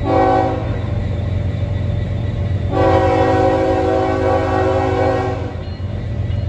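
Norfolk Southern freight locomotive's air horn: one short blast at the start, then a long blast of nearly three seconds a few seconds later, a chord of several notes, over the steady low rumble of the train.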